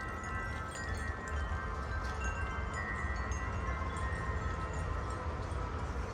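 Metal tube wind chimes ringing in the wind, several long overlapping tones sounding together, with new strikes coming in every second or so. A low wind rumble runs underneath.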